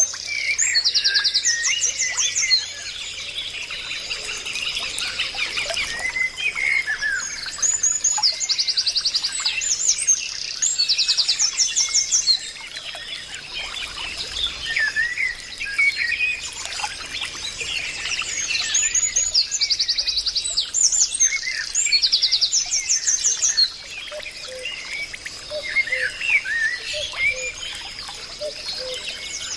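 Several birds chirping and singing at once, with loud, fast trills recurring every few seconds over a steady high-pitched tone.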